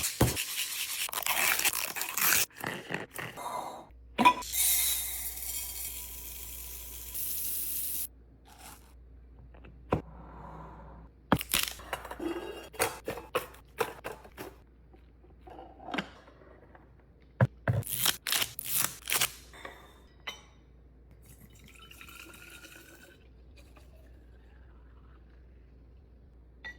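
Kitchen restocking handling noises: food goes into clear plastic containers with crinkling and scraping, then a steady hiss for a few seconds that cuts off suddenly, then a series of sharp clicks and knocks.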